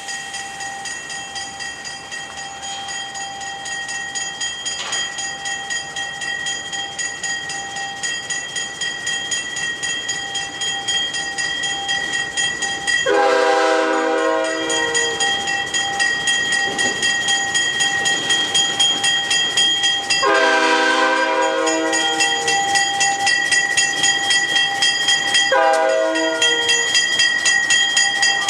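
An approaching locomotive with its bell ringing steadily and growing louder. Its multi-note horn sounds a long blast, a second long blast and a short one, the start of the long-long-short-long grade-crossing signal.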